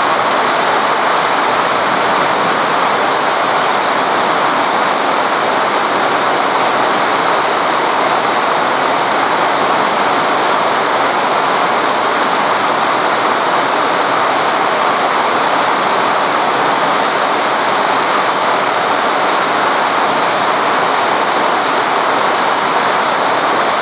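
Torrential rain falling in a steady, loud, unbroken hiss.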